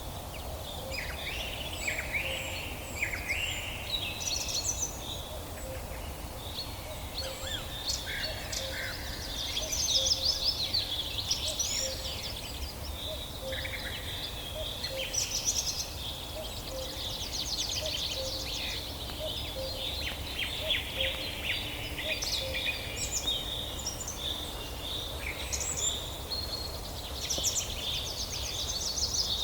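Several songbirds singing and calling at once, with overlapping chirps, whistles and fast trills, over a steady low rumble.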